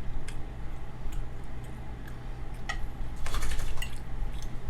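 Cutlery clicking against a plate a few scattered times while eating, with a short rapid cluster of clicks and scrapes about three seconds in, over a steady low hum.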